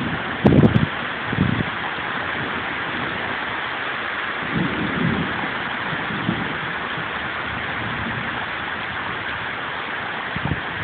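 Heavy rain falling as a steady hiss, with a few short low rumbles, the strongest about half a second in.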